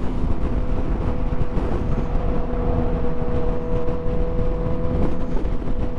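Motorcycle riding at a steady speed: the engine note holds steady over a dense rumble of road and wind noise.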